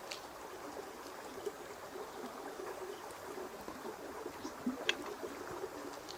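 Steady sound of flowing water, with a few light clicks and taps over it, the sharpest about five seconds in.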